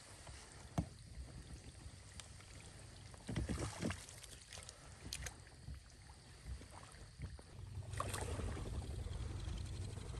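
Faint sounds of a small jon boat moving through shallow water: a few short knocks and rustles, then a steadier rushing noise from about eight seconds in.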